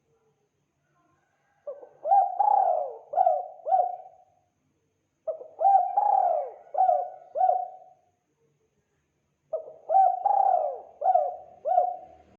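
Spotted dove (tekukur) cooing: three phrases of about five notes each, a few seconds apart.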